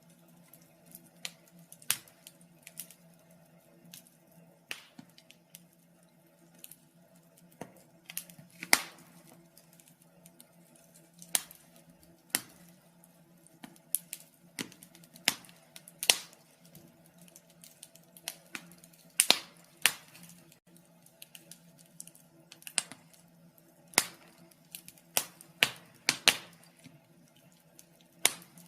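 Wood fire crackling in a fireplace: irregular sharp pops and snaps at uneven intervals, some much louder than others, over a faint steady low hum.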